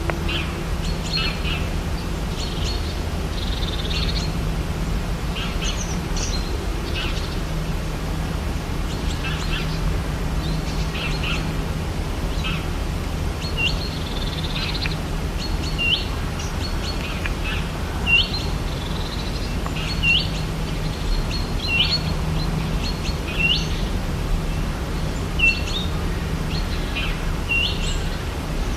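Birds calling in a rainforest chorus of many short chirps. From about halfway, one bird repeats the same short call ending in an upward flick, roughly every second and a half, over a steady low rumble.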